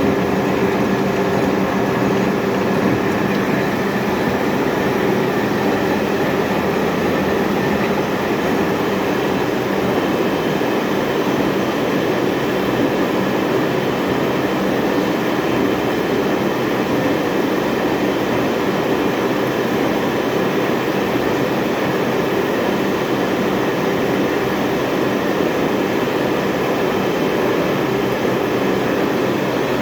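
Lathe running steadily: an even, loud mechanical whir with a constant hum.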